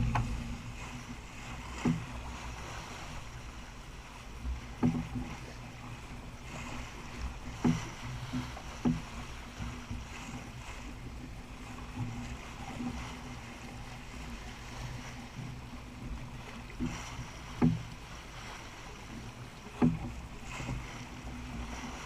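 A Jeanneau 39i sailboat under way: a steady low hum, broken by sharp knocks every few seconds at irregular intervals.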